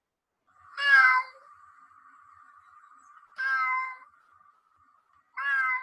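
A domestic cat meowing three times, the first call the loudest.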